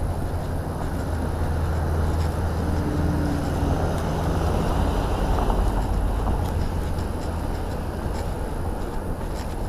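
Car on the move: a steady low engine hum with road noise, growing a little louder around the middle.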